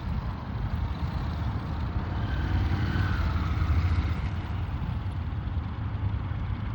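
Motorcycle engine running at low speed, its pitch briefly rising and falling about two to three and a half seconds in.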